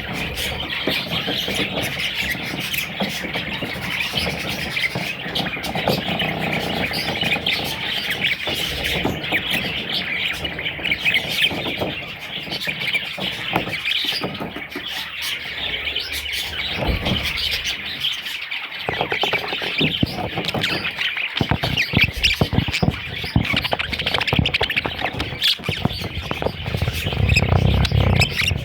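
Budgerigars chirping and chattering continuously in a dense twitter, with scattered low knocks and bumps in the second half.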